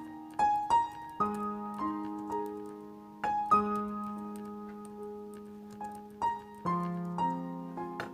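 Background piano music: an unhurried melody of single struck notes that ring and fade over sustained lower notes.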